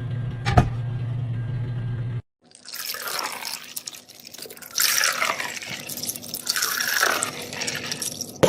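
Liquid being poured into a container in a few pours, splashing with a shifting pitch as it fills. Before it, a short stretch of steady low hum with one click, then a sudden break.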